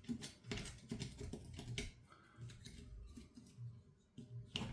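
Light clicks and taps of hand tools against metal parts during a chainsaw teardown: a quick run of small clicks at first, then a few scattered ones and a sharper click near the end.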